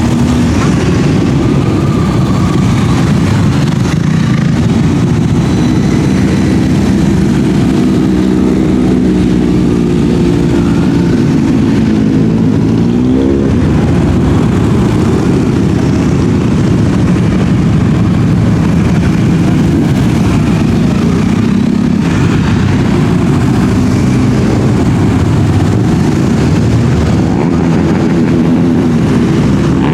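Many motorcycle engines running as a parade rides past, a loud, continuous drone of overlapping engines. About thirteen seconds in, one engine's pitch climbs and drops back as it revs.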